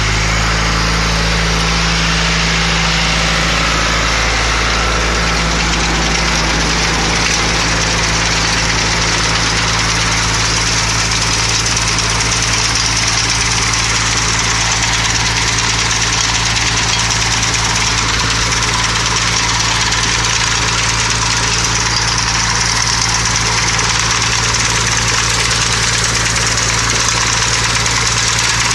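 Sickle bar mower running: a steady engine drone with a constant high hiss over it, and a slight change in the engine's note about five seconds in.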